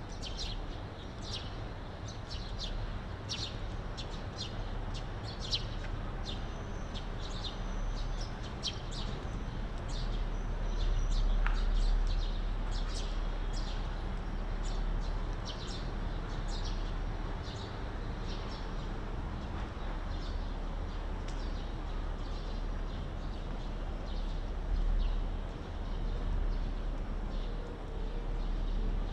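Small birds chirping: many short, high calls, coming thick for the first ten seconds or so and then thinning out, over a steady low background rumble.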